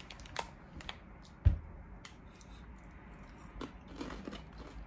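Crunchy cone-shaped corn chips being bitten and chewed in a few soft, scattered crunches, with one low thump about a second and a half in.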